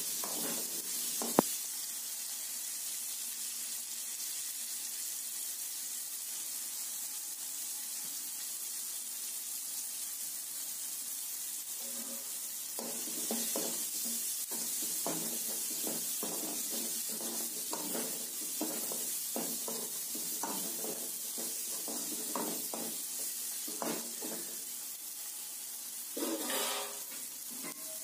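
Bitter gourd pieces sizzling as they fry in a metal kadai, with one sharp click a little over a second in. From about halfway, a steel spoon scrapes and stirs through the pieces in quick repeated strokes.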